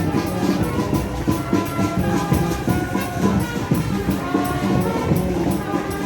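Brass band music with a steady percussion beat.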